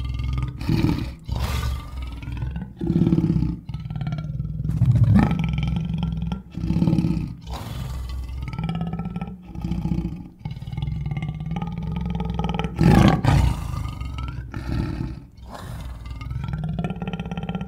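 A cartoon cougar's growls and snarling roars, a run of separate bursts of one to two seconds with short breaks between them. The loudest comes about two-thirds of the way through.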